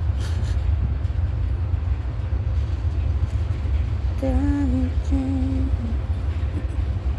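Long freight train rolling slowly past, a steady low rumble. About four seconds in, a woman hums a short two-note phrase over it.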